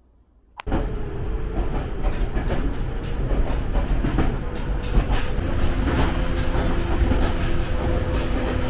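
Jōshin Dentetsu electric train running along the track: a steady rumble with many short wheel-on-rail clicks and a faint steady motor tone. It cuts in suddenly about half a second in.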